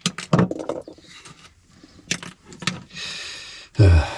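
Handling noises from reworking small wire connectors: a scatter of clicks and knocks, a short scraping hiss about three seconds in, then a heavy thump near the end.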